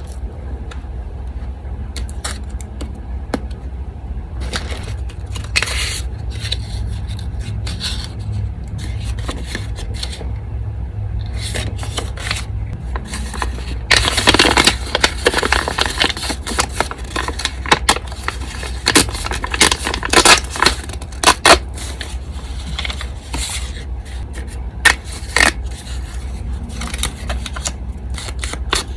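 Paper being handled for a collage: quiet at first, then about halfway in a spell of loud paper scraping and rustling with sharp clicks, followed by scattered taps and rustles. The steady low hum of an electric fan runs underneath.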